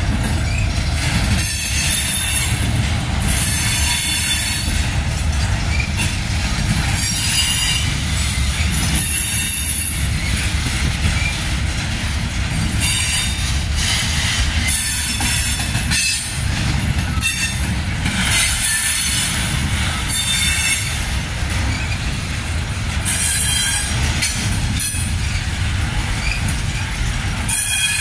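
Train rolling past with a steady low rumble of wheels on rail, and high-pitched wheel squeals coming and going every second or two.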